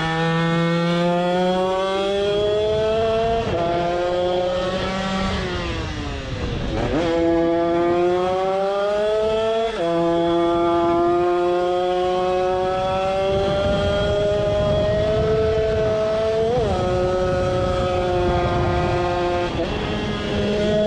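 Small two-stroke engine with a TPR 76 cc cylinder kit, Mikuni 24 carburettor and DRP expansion-chamber exhaust, running hard. Its pitch climbs slowly, then drops sharply several times, once falling deep and climbing back, with a short blip near the end.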